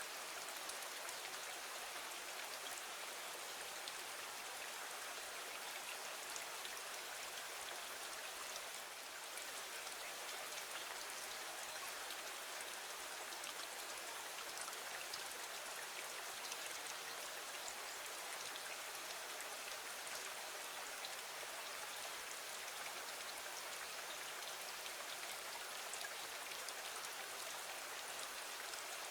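Steady rain: an even hiss of many small drops with fine scattered ticks of individual drops.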